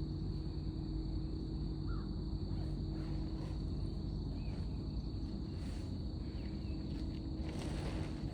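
Outdoor nature ambience: a steady high-pitched insect drone with a low background rumble, a few short bird chirps, and a brief rustle near the end.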